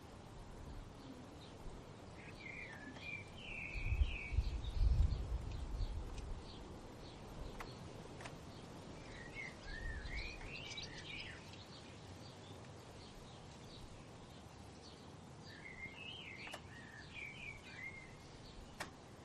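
A songbird sings three short warbling phrases several seconds apart over a steady outdoor hiss. A low rumble of wind swells briefly after the first phrase and is the loudest thing heard.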